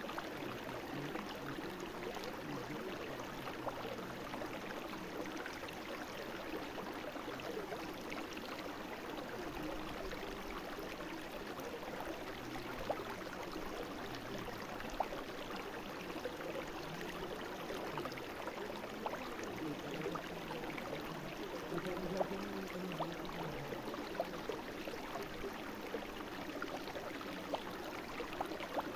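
A brook flowing, a steady rush of running water with many small splashes and drips scattered through it.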